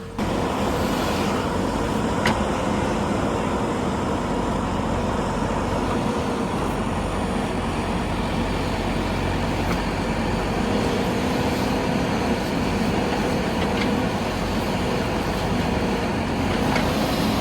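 A tractor's diesel engine running steadily under power, a constant loud drone with a steady hum.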